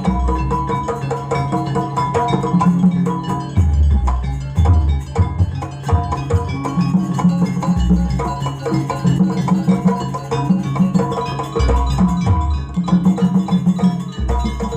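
Gamelan-style jaranan accompaniment: drums and ringing metal mallet instruments playing a dense repeating pattern, with deep low booms every few seconds.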